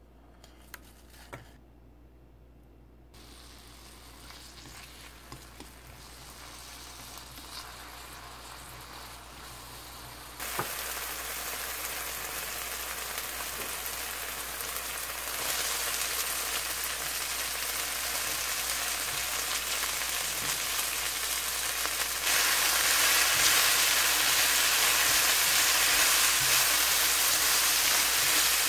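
Frozen garlic cloves and chopped green onion frying in hot oil in a pan: a steady sizzle that gets louder in several sudden steps, after a few light clicks near the start.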